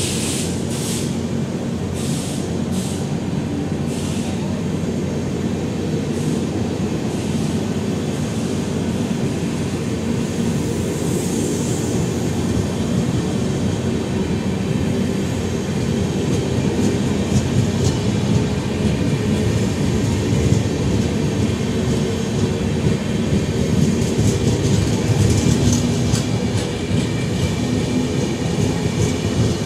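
Passenger coaches of a departing express train rolling past on the rails, the wheels clattering steadily. It grows louder in the last part as the train gathers speed.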